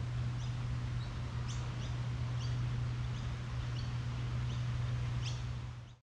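Small birds chirping, short high notes about two a second, over a steady low hum, fading out at the very end.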